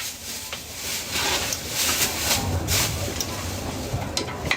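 Food frying at a street-food stall: a sizzling hiss that swells in repeated short bursts about every half second, with a few sharp metal clinks of utensils near the end.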